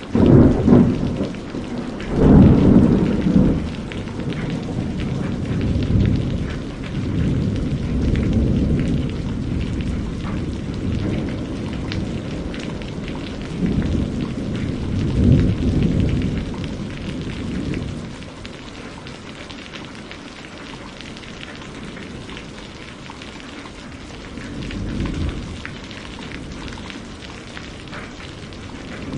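Steady heavy rain with rolling thunder, the sound cutting in suddenly at the start. The deepest rumbles come in the first few seconds and again around the middle, with a quieter spell of rain in the second half.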